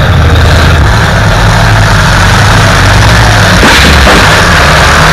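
Demolition derby Cadillac's engine running hard, loud and distorted inside the cabin. A heavy bang about three and a half seconds in as the car takes a hit.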